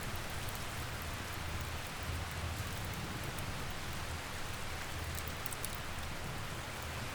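Steady rain falling, with a low rumble beneath it and a few sharp crackles of a wood fire, a cluster of them about five and a half seconds in.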